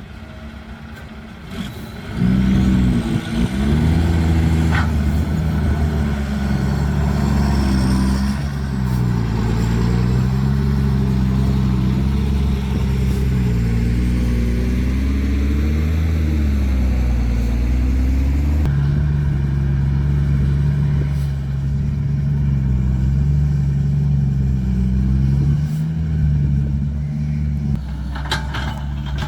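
Diesel engine of a Caterpillar 312 excavator working. It gets much louder about two seconds in, and its pitch then rises and falls unevenly as the machine works.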